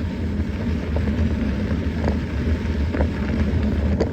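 Mountain bike in motion: a steady low rumble of tyres on the trail and wind buffeting the microphone, with a few sharp clicks.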